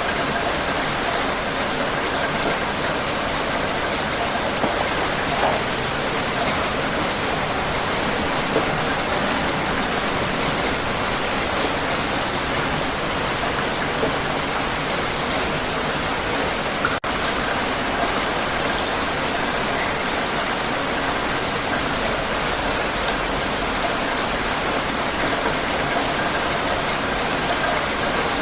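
Heavy rain falling steadily, an even hiss with scattered individual drop hits. There is a split-second gap about two-thirds of the way through.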